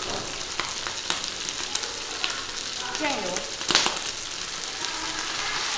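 Sliced pig ears sizzling and crackling in a large iron wok as seasonings are added. A single sharp knock stands out a little under two-thirds of the way through.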